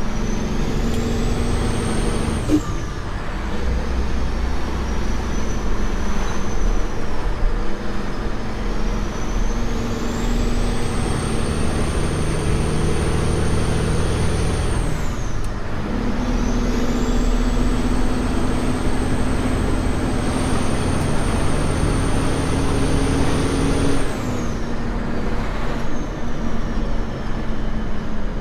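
Semi truck's diesel engine pulling under load. A high whine climbs and holds as it pulls, then drops away three times, as at gear changes or lifting off the throttle.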